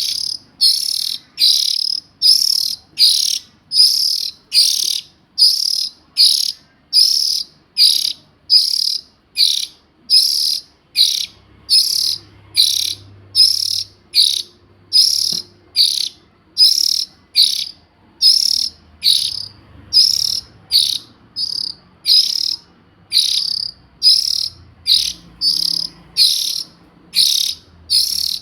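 Young oriental magpie-robin calling: a harsh, hissing call repeated steadily, a little more than once a second.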